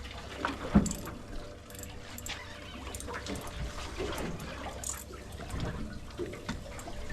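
Water splashing and sloshing, with scattered small knocks and one sharp knock a little under a second in.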